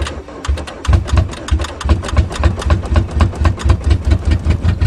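Small Geo car engine catching on the last of a weak battery after long cranking in the cold: a few uneven firings, then settling into a fast, rough, even run of about eight or nine pulses a second.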